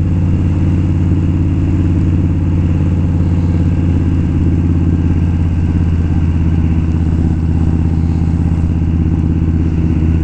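Indian Scout's V-twin engine running at a steady cruising speed as the motorcycle is ridden, a constant low engine note with no revving.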